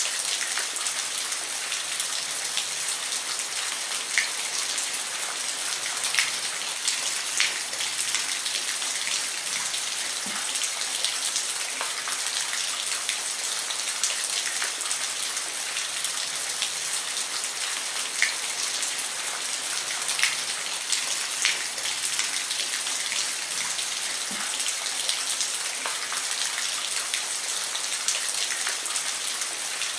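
Steady rain falling on a roof: a constant hiss with scattered sharp drop hits.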